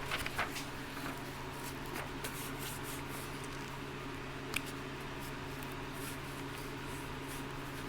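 Faint handling sounds of a paper template being worked and marked with a marker: a few light clicks and taps just after the start and one sharp tick about four and a half seconds in, over a steady low hum.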